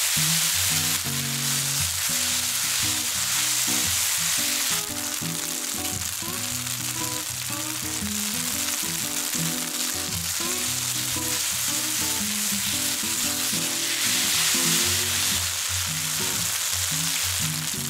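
Rice noodles and green onions sizzling as they stir-fry in an oiled pan. The sizzle is loudest in the first few seconds, eases about five seconds in and swells again around fourteen seconds, with background music under it.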